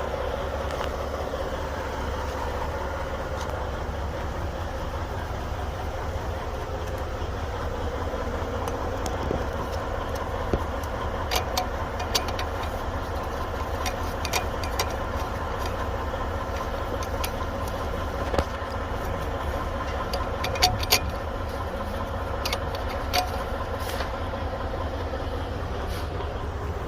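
Heavy-truck diesel engine idling steadily, with a faint steady whine and scattered sharp metallic clicks, mostly in the second half. The clicks fit a burned, broken A/C compressor clutch.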